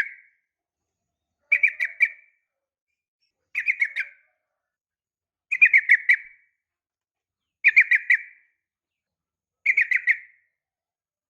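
Yellow-vented bulbul (trucukan) calling: a short, quick run of three to five bubbly notes, repeated about every two seconds.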